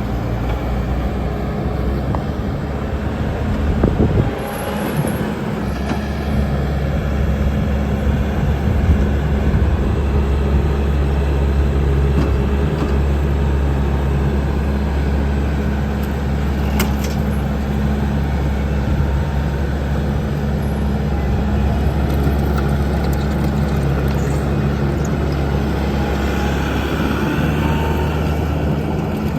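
Bobcat T870 skid steer loader's diesel engine running steadily, briefly louder about four seconds in.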